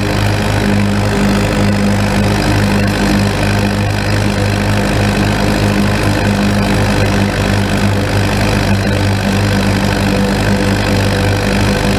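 Tractor's Cummins diesel engine running steadily at a constant speed.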